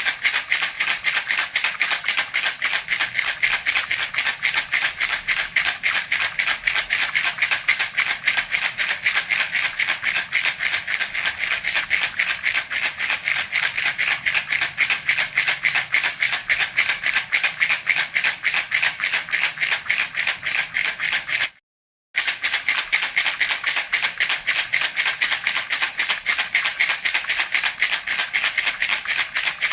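Baby's rattle (jhunjhuna) shaken fast and steadily in an even rhythm, a bright, high rattling of small beads. The sound drops out completely for about half a second roughly two-thirds of the way through, then resumes unchanged.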